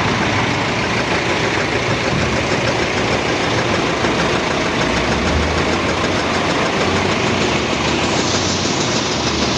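An engine running steadily at idle, a continuous low hum with no break.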